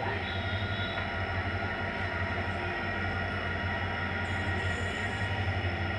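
Steady low hum and rumble of trains at a station, with no distinct passes, horns or braking.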